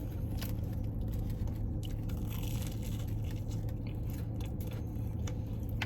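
Someone chewing a mouthful of crunchy, panko-coated, cheese-filled Korean corn dog, with soft crunching clicks over a steady low hum.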